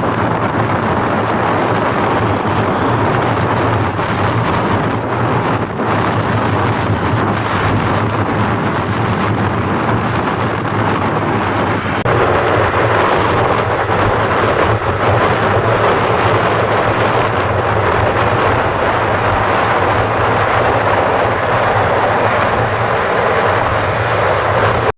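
Strong blizzard wind blowing, a loud steady rush of noise over a constant low hum. About twelve seconds in the rush turns brighter and hissier.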